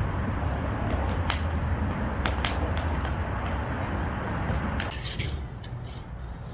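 Firewood fire crackling and popping in a fire pit, with sweet potatoes roasting in it: sharp irregular pops over a steady rushing hiss. The rushing drops away about five seconds in, leaving sparser pops.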